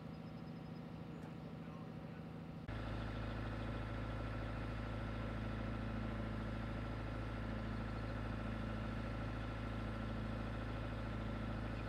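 Steady hum of an idling vehicle engine. About three seconds in it cuts abruptly to a louder, deeper idle.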